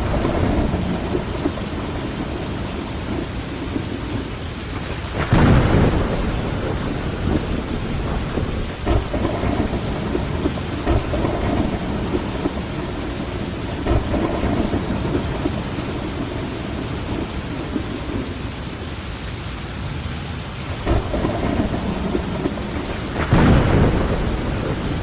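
Steady rain falling on a window, with a low rumble of thunder running under it. Two louder surges come about five seconds in and near the end.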